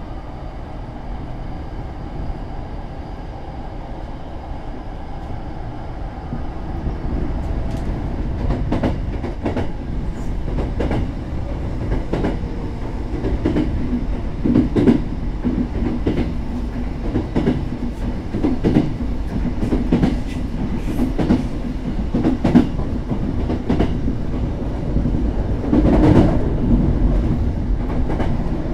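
Hankyu Railway express train running at speed, heard from inside the carriage: a steady rumble that grows louder over the first few seconds, then wheels clacking over rail joints again and again, with a louder rush of noise near the end.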